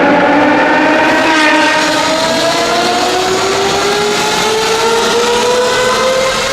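Car engine accelerating hard, its note climbing slowly and steadily in pitch through a long pull.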